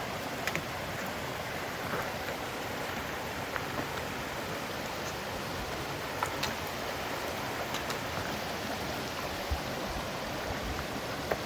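Steady rush of flowing water from a nearby creek or cascade, with a few faint ticks scattered through it.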